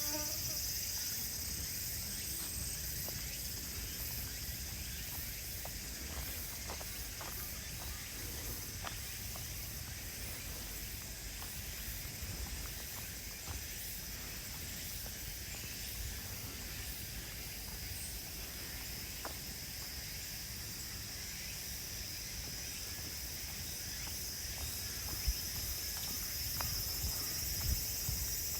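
Steady high-pitched chorus of insects singing in woodland, with faint low rumble and occasional light ticks of footsteps on the path.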